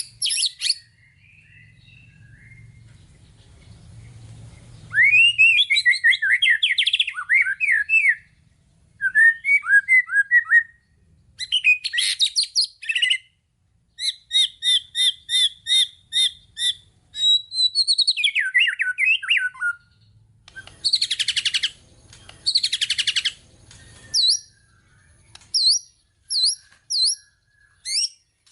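White-rumped shama singing a loud, varied song packed with fill-in phrases: sweeping whistles, fast runs of repeated chips, and near the end short sharp notes about twice a second, after a quiet first few seconds.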